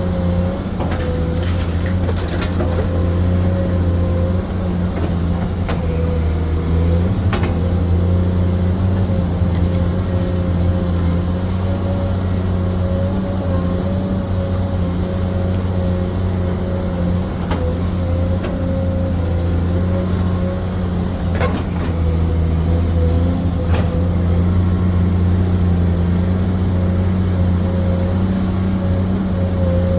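Excavator running steadily under load, a constant engine hum with a higher steady whine over it, and a few sharp metallic knocks from the working gear.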